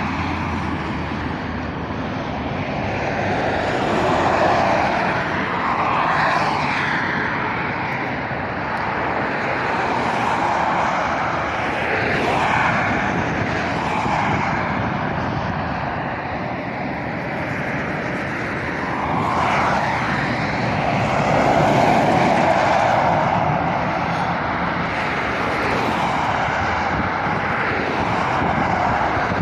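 Road traffic on a busy main road: lorries and cars passing one after another, the tyre and engine noise swelling and fading every few seconds.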